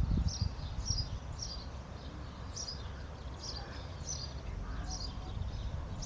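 A bird calling with short, high chirps repeated about every half second, over a low rumble that is strongest at the very start.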